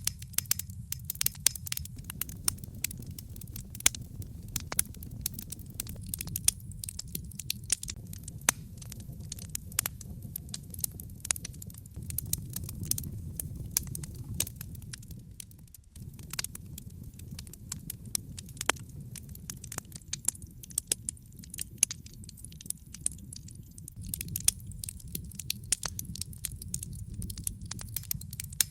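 Wood fire burning in a fireplace: logs crackling with many sharp irregular pops over a steady low rumble. The sound drops away for a moment about halfway through, then carries on.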